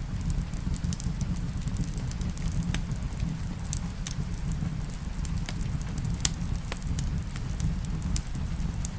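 Wood fire crackling in a fireplace: scattered sharp pops, the loudest about six seconds in, over a steady low rumble, with rain in the background.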